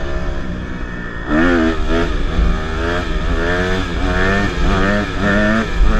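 Small dirt bike engine running, then revved up and down repeatedly from about a second in.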